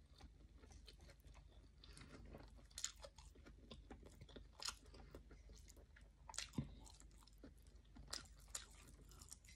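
A person quietly chewing a mouthful of rice and omelette, with a handful of soft mouth clicks and smacks spread through.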